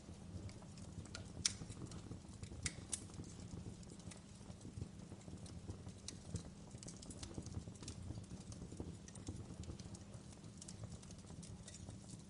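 Crackling fireplace: a steady low rumble of burning with irregular sharp pops and snaps, the loudest about a second and a half in and again near three seconds.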